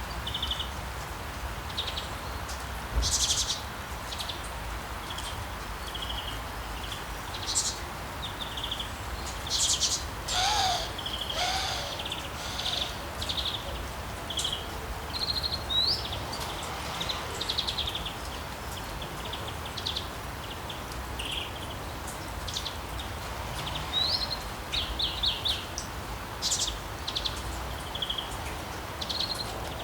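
Small birds chirping with many short, high calls scattered throughout, over a steady wash of sea waves; two lower calls stand out about ten and eleven seconds in.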